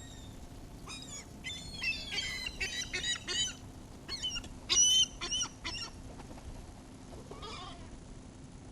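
Seagulls calling: a quick run of about a dozen short, harsh squawks from several birds between about one and six seconds in, loudest near five seconds, then one fainter call near the end.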